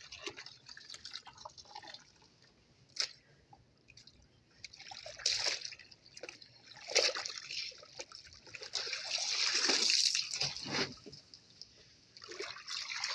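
Wet laundry being lifted out of a twin-tub washing machine's wash tub after the wash, water dripping and splashing back into the tub in irregular bursts. One sharp click about three seconds in.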